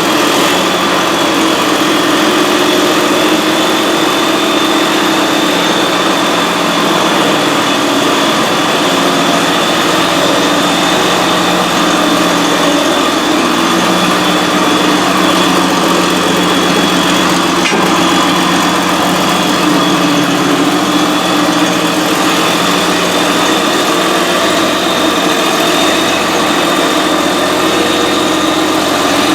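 John Deere 6068 six-cylinder diesel engine, just after an in-frame rebuild, running steadily at a constant speed on a straight pipe with no muffler.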